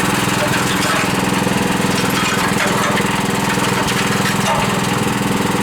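Concrete mixer's newly fitted small engine running steadily at an even speed.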